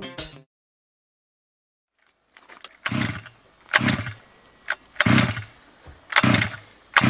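Zenoah 26cc two-stroke engine of a large-scale RC car being blipped during break-in: short revving bursts about once a second, falling back to a faint idle between them. It starts about three seconds in, after the music cuts out.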